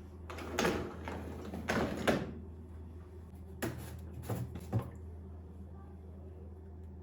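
Household handling sounds: two brief swishes, then a few short knocks and clicks like a door or drawer being moved, over a steady low hum.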